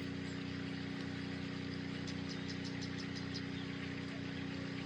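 Steady low electrical-sounding hum, with a short run of faint high ticks about halfway through.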